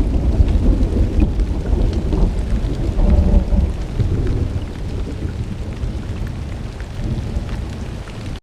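Rolling thunder rumbling over steady rain, the rumble heaviest in the first three seconds or so and slowly dying away. The sound stops abruptly at the very end.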